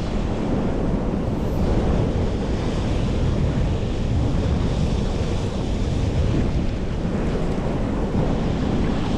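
Steady blustery roar of blizzard wind buffeting the microphone.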